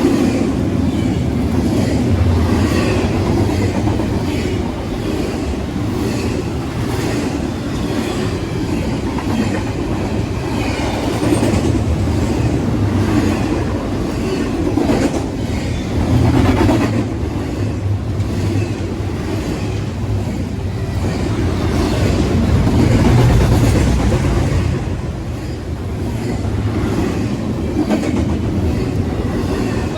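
Freight train cars rolling past: a steady, loud rumble with repeated clacks of wheels over rail joints.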